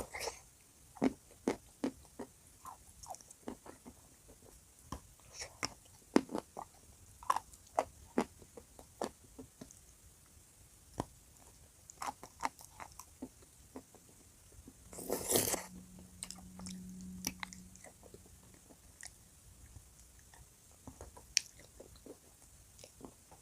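Dry chalk with blue clay paste being bitten and chewed up close: sharp, irregular crunches, thick in the first half and sparser later. About fifteen seconds in comes a louder, noisier burst, followed by a short low hum.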